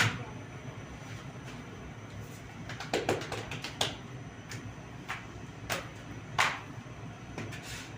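Irregular knocks and clacks over a steady low hum, loudest right at the start and about six and a half seconds in, with a quick cluster around three seconds in.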